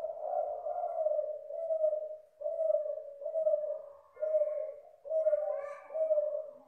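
Spotted dove (derkuku/tekukur, Sinom F1 bird) cooing: a steady run of low coos, about one a second, each separated by a short pause.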